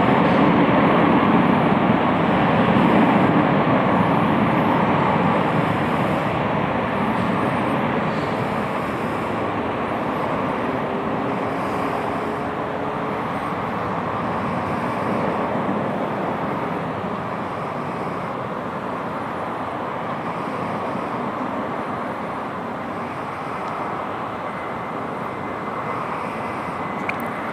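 Airbus A330-200 airliner's twin jet engines at takeoff power, a steady heavy rush of engine noise, loudest at first and slowly fading as the jet moves away.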